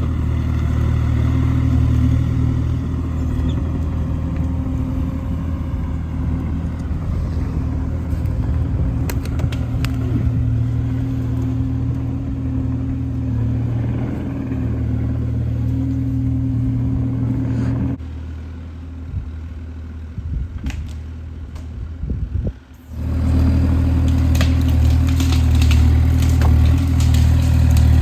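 Kubota KX040 mini excavator's diesel engine running at steady speed, low-pitched, with scattered clanks and knocks over it. Its level drops for a few seconds about two-thirds through, cuts out briefly, then comes back at full level.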